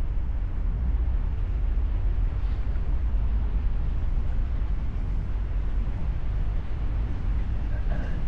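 Tour boat's engine running steadily under way, a constant low rumble, mixed with wind on the microphone.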